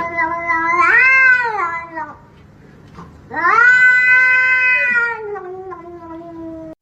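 A cat yowling in two long, drawn-out meows. The first rises and then falls in pitch and ends about two seconds in. The second starts about a second later, holds, and slides down in pitch near the end.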